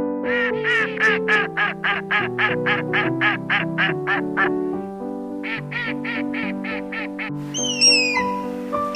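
An animal giving two fast runs of short, repeated calls, about three or four a second, with a short pause between them; near the end come a few higher calls that fall in pitch.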